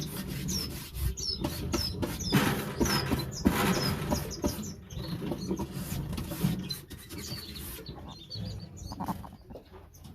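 Small cage birds chirping again and again with short, high calls. Under them run rustling and scraping noises, loudest in the first half.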